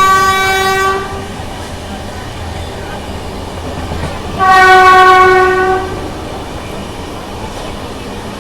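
WAG9 electric locomotive's horn sounding two steady blasts, the first ending about a second in and the second lasting about a second and a half near the middle, over the steady running noise of the train.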